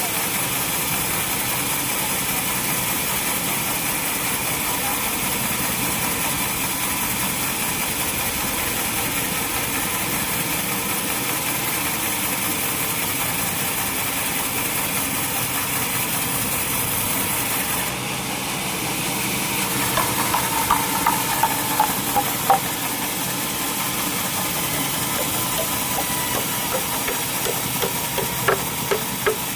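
Sawmill machinery running steadily, with a run of short clicks about twenty seconds in and another near the end.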